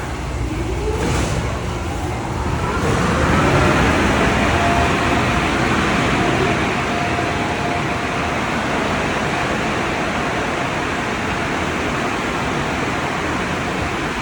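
Tunnel car wash dryer blowers spinning up: a whine rising in pitch over the first few seconds, then running steadily with one held tone over a loud rush of air.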